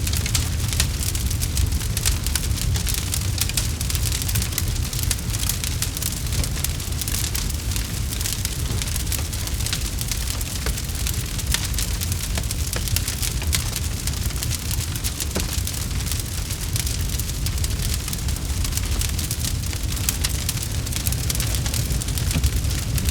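Campfire burning with a dense, steady crackle of many small sharp pops over a low rumble of the flames.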